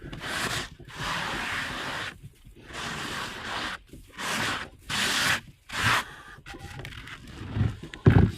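Hands rummaging through nest-box bedding while searching for eggs: a series of rustling, scraping spells with short pauses between them. It quietens after about six seconds, with a low thump near the end.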